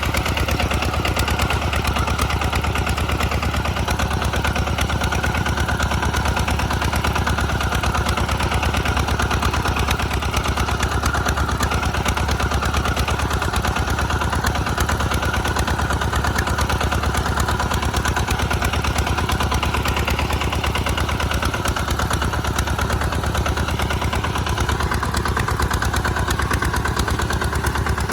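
Tractor engine running steadily, a fast, even chugging beat that holds level throughout.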